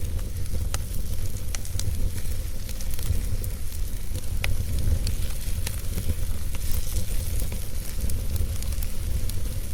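Wood fire crackling and hissing, with sharp pops scattered through it, over a steady low rumble.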